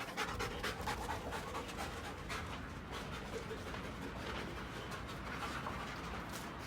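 Dog panting steadily.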